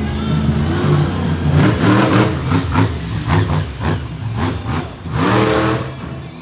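Monster truck engine revving hard, its pitch repeatedly climbing and dropping as the throttle is worked, with short sharp pops in between.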